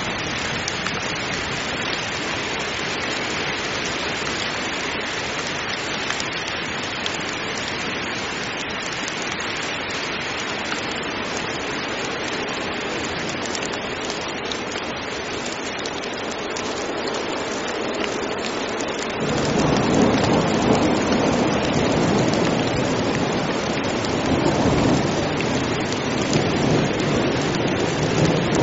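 Heavy rain falling steadily, a dense even hiss. About two-thirds of the way through, a deep rolling rumble of thunder comes in under the rain and keeps going.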